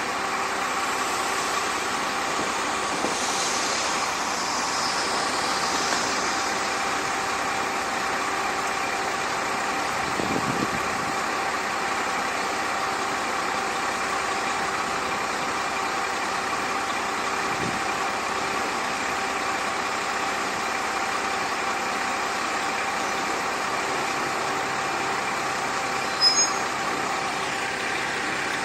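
Kanto Railway KiHa 532 diesel railcar's engine idling steadily with an even hum. Near the end come a few sharp clicks.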